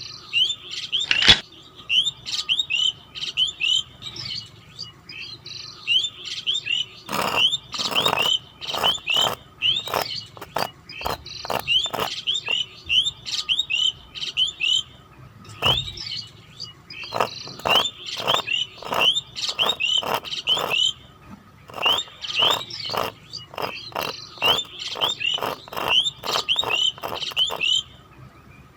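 Small birds chirping in quick, repeated runs of short high notes, with scattered sharp clicks in clusters.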